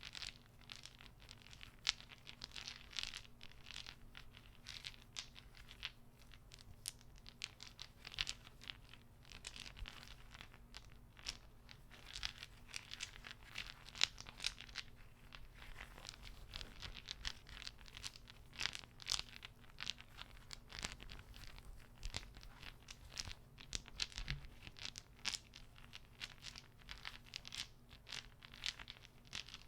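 Wooden beads clacking against one another, an irregular stream of many small, quick clicks.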